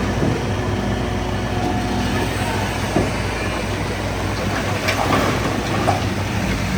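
Heavy diesel earthmoving machinery running steadily under load, with a few metallic clanks about three, five and six seconds in.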